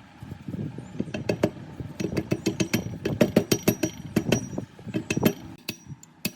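Rapid metallic knocking and clinking from metal parts being struck or worked, several sharp strikes a second, many with a short ringing tone.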